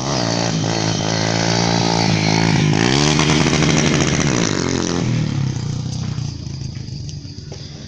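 Motorcycle engine revving: its pitch climbs about three seconds in, drops back about two seconds later, then the sound fades away.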